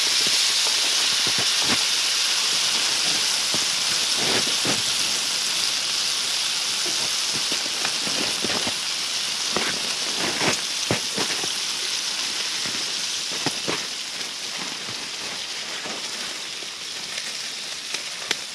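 Beyond Meat burger patties sizzling in oil in a frying pan on a wood stove: a steady hiss with scattered pops and crackles, gradually getting quieter over the last few seconds.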